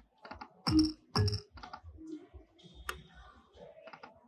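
Lightning Link slot machine spinning: sharp clicks with short low thuds, the loudest pair about a second in, then softer clicks and a brief high electronic tone.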